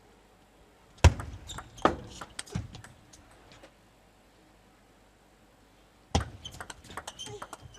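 Table tennis ball taps: a few sharp clicks of the celluloid-type plastic ball on table and bats, the first the loudest, then a lull of about two seconds, then a fresh string of quick clicks starting about six seconds in.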